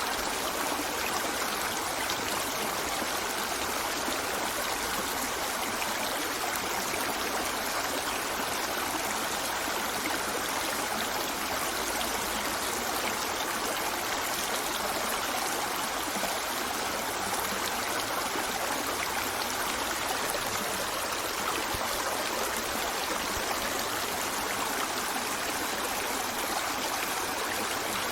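A river flowing over rocks: a steady, even rushing and babbling of water.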